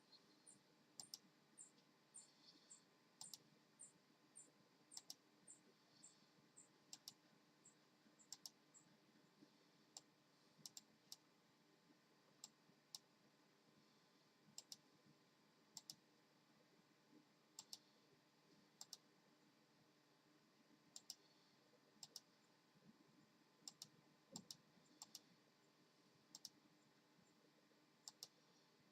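Faint, irregular sharp clicks, many of them in quick pairs. A run of short, very high peeps, a few a second, sounds over the first eight seconds or so.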